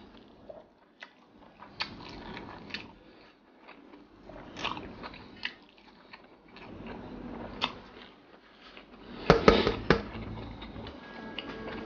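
Chewing and wet mouth noises from a mouthful of rice and sardine, with scattered short smacks and clicks. A louder cluster of clicks comes about nine seconds in.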